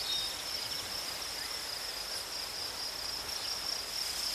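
Steady high-pitched insect trill over a faint hiss.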